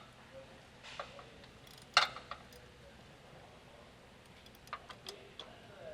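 A few sharp metallic clicks and clinks from a socket and ratchet being fitted onto a drivetrain fill plug, the loudest about two seconds in and a small cluster near the end.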